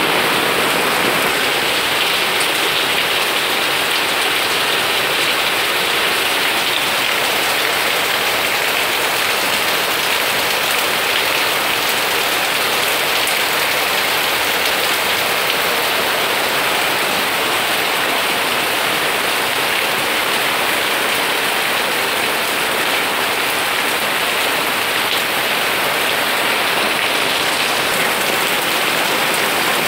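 Steady heavy rain falling on garden plants and leaves, an even hiss that does not let up.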